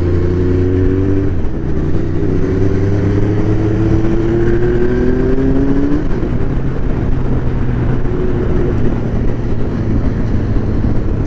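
Superbike engine running under way, its pitch climbing slowly as the bike gathers speed, with a gear change about a second and a half in and another around six seconds.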